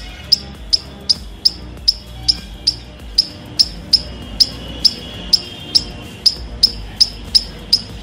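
Sharp clicks about two to three times a second, fairly even, over background music of low held tones.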